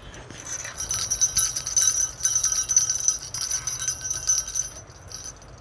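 Metallic jingling, like small bells being shaken steadily for about five seconds, dying away near the end.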